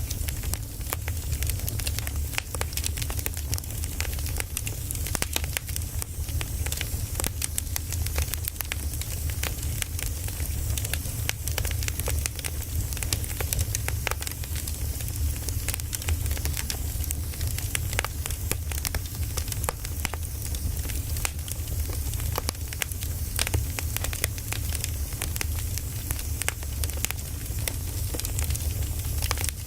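Burning firewood crackling, with many sharp pops and snaps at irregular intervals over a steady low rumble.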